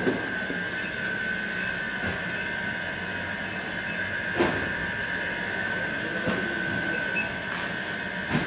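Telescopic conveyor running: a steady high-pitched whine over a rattling mechanical rumble, with a few sharp knocks, the loudest about four seconds in.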